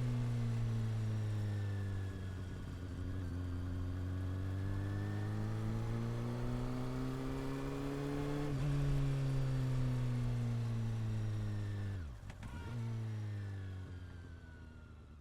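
Honda CB400 Super Four's inline-four engine and exhaust on the move, its note climbing slowly and then easing off as the throttle changes, with a brief dip about twelve seconds in. The sound fades out near the end.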